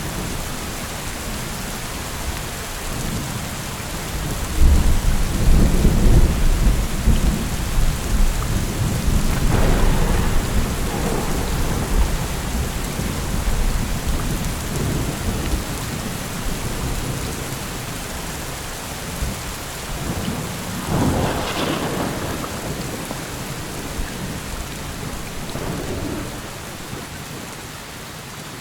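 Steady rain with rolling thunder: a deep rumble starts about five seconds in, lasts several seconds and slowly fades. A sharper thunderclap comes about two-thirds of the way through, and a smaller one near the end.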